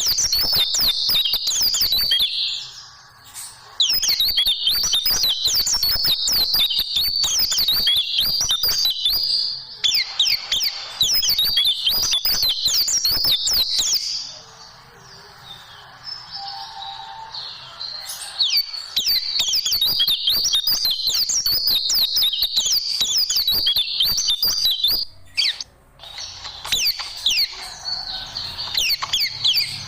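White-eye (pleci) singing long, fast twittering phrases of quick high chirps, broken by a few short pauses: the loud, rapid 'tembakan' song used as a masteran for training caged pleci.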